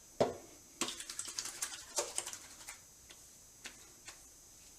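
A bottle of Aqua Velva Ice Sport aftershave being handled and opened, and the aftershave put on: a knock just after the start, then a quick run of light clicks and taps lasting about two seconds, then a few scattered single taps.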